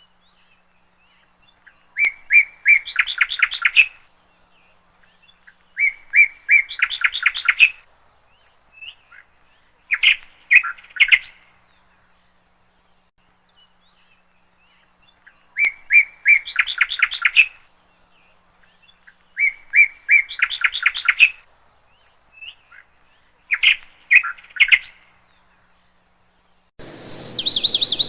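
A songbird singing the same short song six times with quiet gaps between. Each song is a few clear notes running into a fast trill. Near the end a steady background hiss comes in with a different chirping call.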